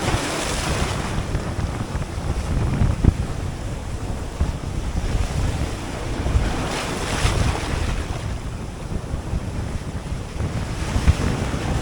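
Strong wind buffeting the microphone over a rough sea, with waves washing in; a louder wash comes near the start and another around the middle.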